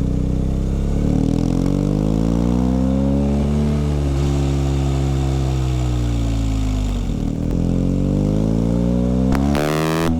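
BMW R 1250 GS Adventure's boxer twin engine pulling up through the revs, easing off, then revving up again near the end. A short burst of hissing noise sounds just before the end.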